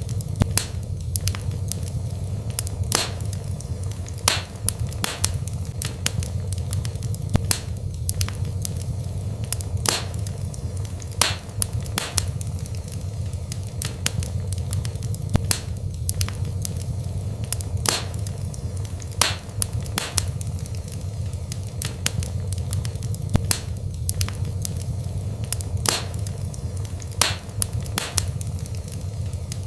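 Wood burning in a fireplace, crackling with sharp pops at irregular intervals, several a second, over a steady low rumble.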